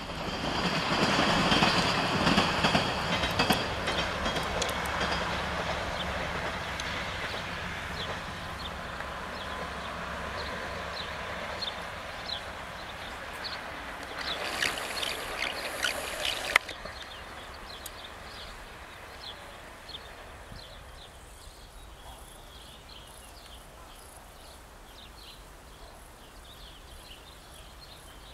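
Passenger train running on the rails, its wheels rumbling and clacking, loud at first and then slowly fading as it moves away. About fifteen seconds in there is a brighter burst of rail clatter that cuts off suddenly. Near the end only faint, repeated high chirps remain.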